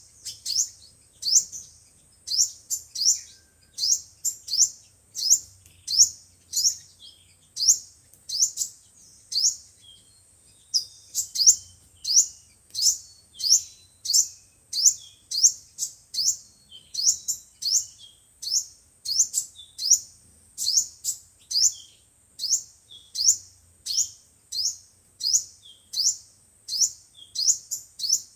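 Sunbird calls: a long, steady series of short, high-pitched, falling chirps, a few each second, as used in a lure recording for trapping birds. A faint steady high tone runs under them.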